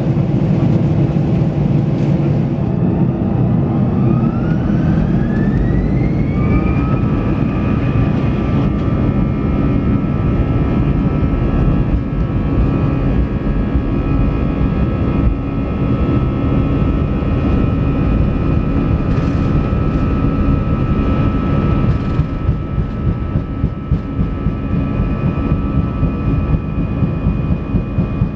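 Airbus A320 jet engines heard from inside the cabin over a loud, constant roar. A whine rises over a few seconds, about four seconds in, then holds as steady high tones: the engines spooling up to takeoff thrust.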